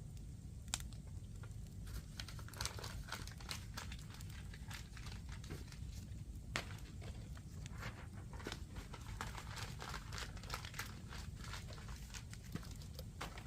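Wood fire crackling with irregular snaps, and two sharper pops, one about a second in and one near the middle, over a steady low rumble.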